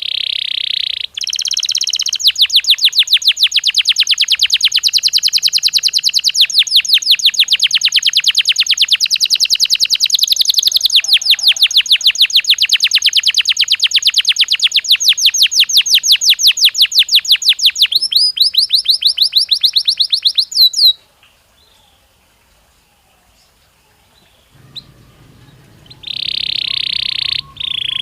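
Belgian canary singing: long runs of rapid, repeated high trill notes that go on for about twenty seconds and then break off. After a few seconds' pause it starts again with one held note near the end.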